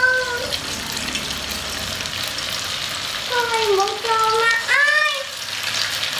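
Herb-flecked minced-meat balls sizzling and crackling steadily in hot oil in a frying pan as they are laid in. A brief high-pitched voice cuts in from about three to five seconds in.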